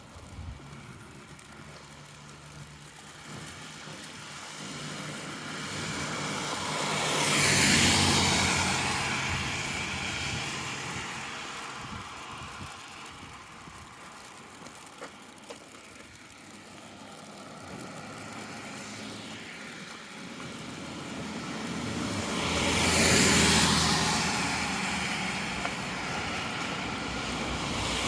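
Two cars passing by one after another on the street, each swelling up and fading away: the first peaks about eight seconds in, the second about twenty-three seconds in.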